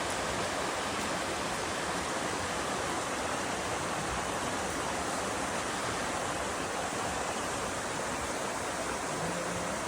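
Steady rushing of flowing water, like a mountain stream running over rocks, even in level throughout.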